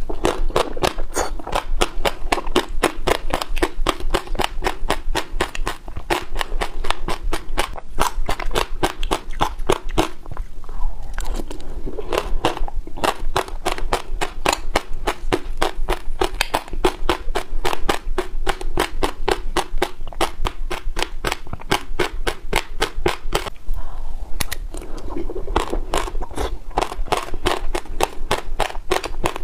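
Close-up chewing of passionfruit seeds: a rapid run of crisp cracks and crunches, about four or five a second, with a couple of brief lulls.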